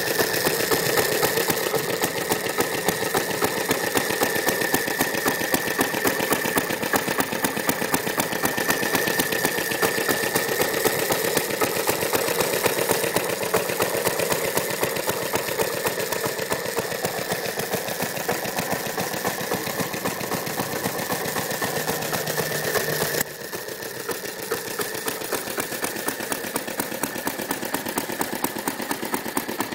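Briggs & Stratton FI single-cylinder engine on a 1929 Moto-Mower reel mower, running steadily with a rapid, even firing beat. It turns suddenly somewhat quieter about two-thirds of the way through and keeps running.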